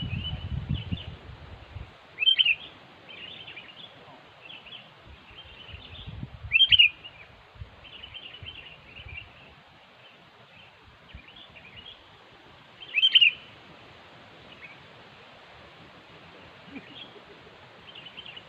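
Sooty-headed bulbuls calling: three loud, sharp calls several seconds apart, with many fainter chirps between them. A low rumbling noise runs through the first two seconds.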